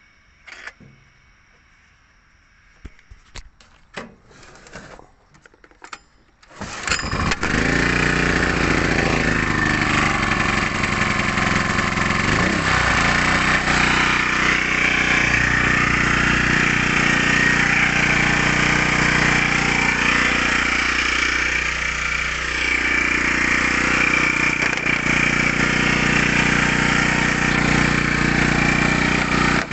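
Nakatomi EG-1000 engine generator starting: a few short rattles and clicks, then the engine catches about seven seconds in and runs loudly at a steady speed, with a couple of brief dips in pitch.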